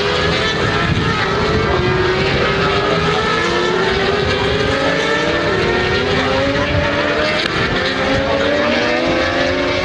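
Several racing motorcycle engines running at high revs together, their overlapping pitches slowly rising and falling.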